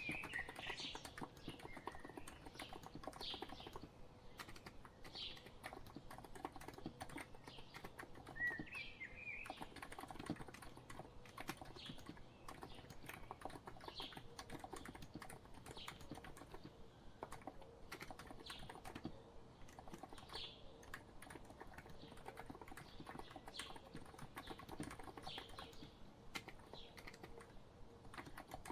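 Steady, soft typing on a COX Empress electro-capacitive keyboard, a dense run of muted keystrokes, with birds chirping now and then in the background.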